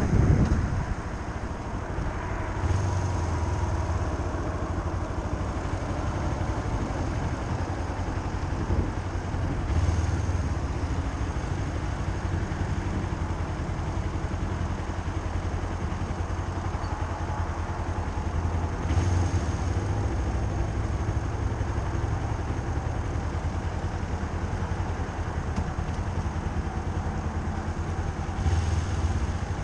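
A motor vehicle's engine running steadily, swelling briefly about four times.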